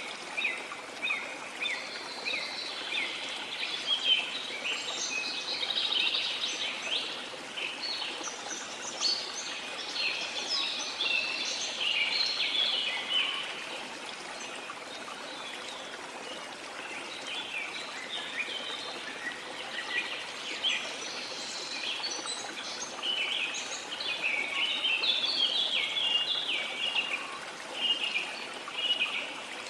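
Many small birds chirping and twittering busily, short quick calls overlapping throughout, over a steady wash of sea water.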